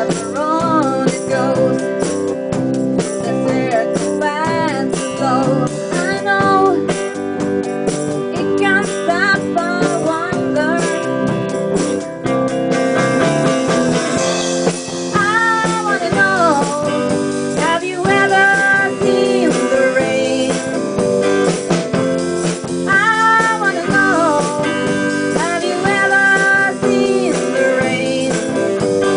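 A rock song playing: a sung lead vocal over strummed guitar with a steady beat.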